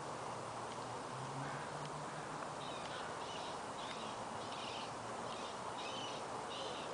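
A bird calling about eight times in a row, roughly two calls a second, starting between two and three seconds in, over a steady background noise.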